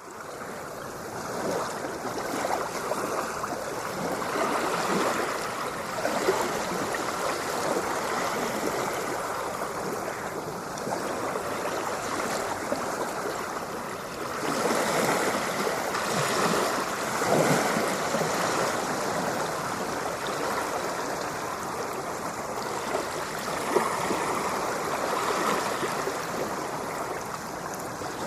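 Ocean waves washing in, a continuous rush of water that fades in at the start, then swells and eases every few seconds.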